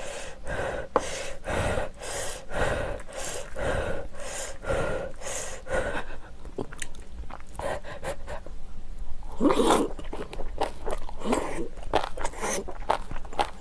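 Close-up chewing of crunchy kimchi, steady rhythmic bites about one and a half a second for the first six seconds, then quieter, sparser mouth clicks with one louder mouth noise about halfway through.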